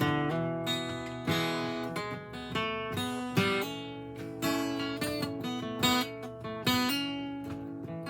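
Acoustic guitar playing an instrumental break, picked notes and strums ringing out in a steady rhythm with no singing.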